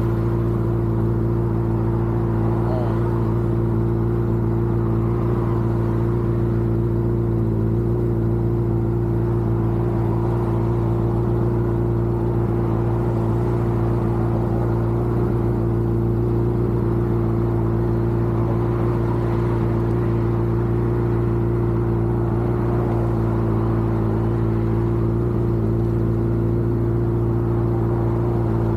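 Vehicle engine running at a steady cruising speed: a constant drone that holds one pitch without rising or falling.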